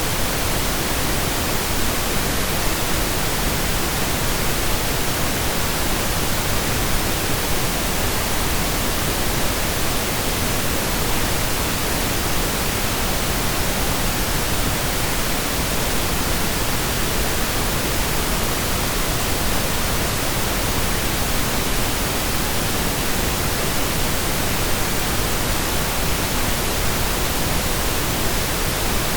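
Synthesized pink noise: a steady, even hiss spread evenly across the whole range from deep to high, like steady rain, with no changes or events.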